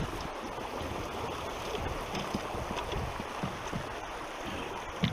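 Moving water rushing steadily, with scattered light knocks and splashes, as a small boat is worked through shallow water.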